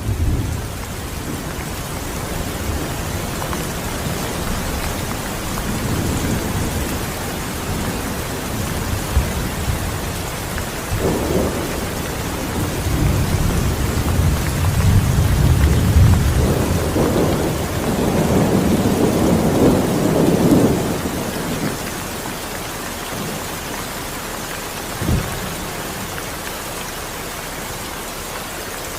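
Steady rain falling, with thunder rolling in long low rumbles through the middle and a short sharp clap about 25 seconds in.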